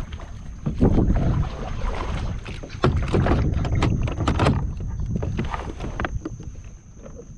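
Fishing kayak moving through choppy water, with irregular splashing against the hull and wind buffeting the microphone.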